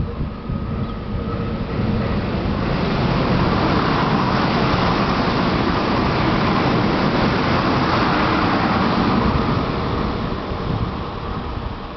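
SP1900 electric multiple-unit train passing: running noise from wheels on rail swells over a couple of seconds, holds steady, then fades away.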